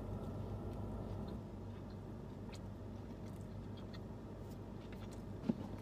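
A person chewing a mouthful of soft white-bread turkey sub with lettuce and cucumber, with faint scattered wet mouth clicks over a low steady hum. A sharper click comes near the end.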